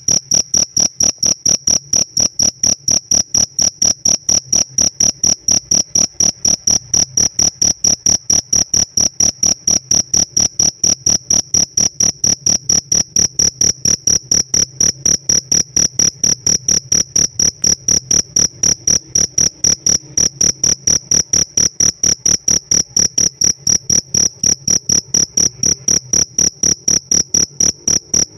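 Pet field cricket chirping in an even, rapid rhythm of several high-pitched pulses a second, unbroken and loud.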